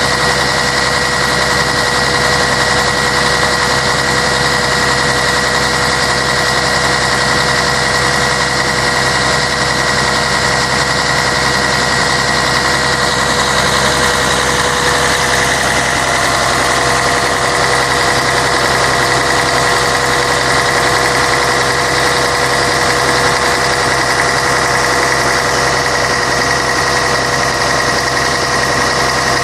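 Scania K113 bus's six-cylinder diesel engine running at a steady, unchanging speed, with a constant whine on top of the engine's noise.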